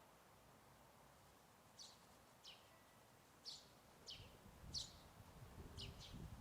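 Songbird chirping in the background: about seven short, high chirps, each sweeping quickly downward, starting about two seconds in. A low rumble comes in from about four seconds on.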